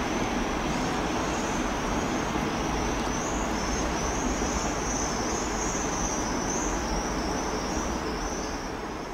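Red double-deck electric regional train running through the station tracks, a steady rolling rumble with a wavering high-pitched squeal over it throughout.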